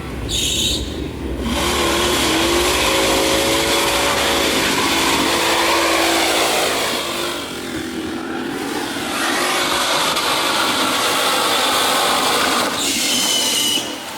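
Off-road 4x4 competition truck's engine revving hard, its pitch rising and falling, in two long loud stretches with a short dip about eight seconds in.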